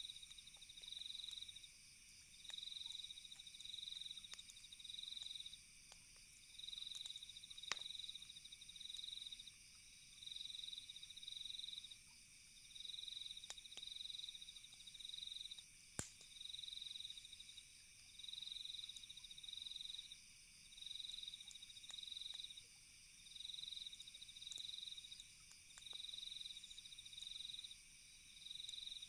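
Crickets trilling in regular pulses, about one trill every second and a half, over a steady high chorus of night insects. A few sharp pops stand out now and then, the loudest twice, typical of a crackling campfire.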